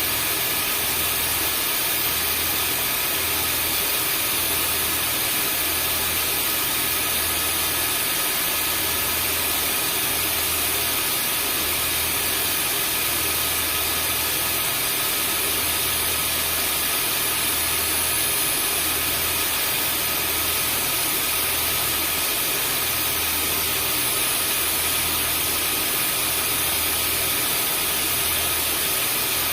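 Vacuum cleaner motor running steadily, an even whooshing hiss with a faint high whine, over a low throb that pulses about every second and a half.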